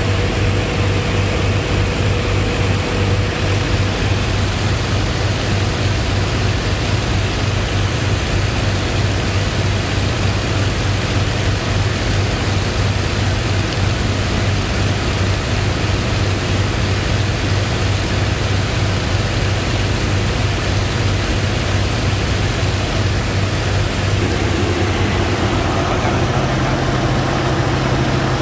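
Engine on a sand-pumping boat running loud and steady with a low hum; its pitch steps up about 26 seconds in.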